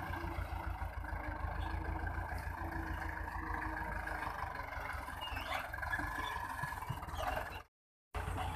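Belarus MTZ-50 tractor's four-cylinder diesel engine running steadily under load while pulling a cultivator through a sugarcane field, with a strong low rumble. The sound cuts out completely for a moment near the end.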